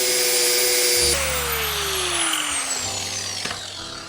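Angle grinder with a flap disc running against wood, a steady motor whine over grinding noise; about a second in it is switched off and the motor winds down in a long falling whine.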